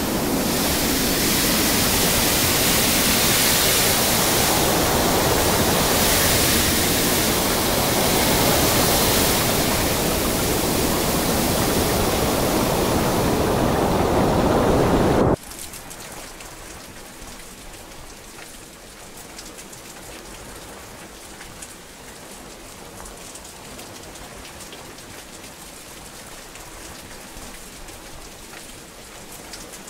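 Heavy rain, a loud dense hiss, that cuts off abruptly about halfway through to much quieter, lighter rainfall with scattered drop ticks.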